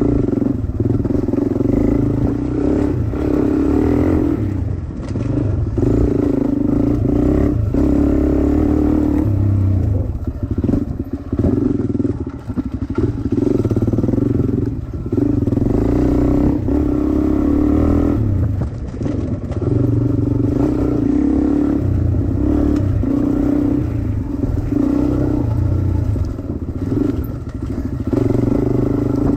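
Dirt bike engine being ridden hard, the throttle opened and shut again every two to three seconds, so the engine note rises and falls over and over.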